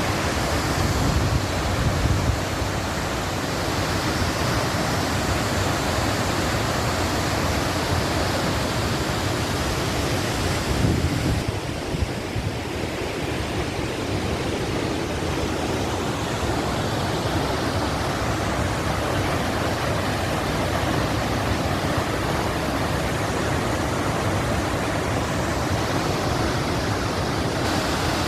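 Waterfall: a steady, full rush of falling water, with its higher hiss dulling a little around the middle.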